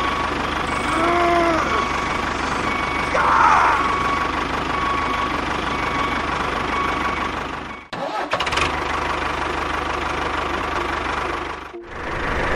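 A small engine running steadily, cut off abruptly twice, near eight seconds and near the end.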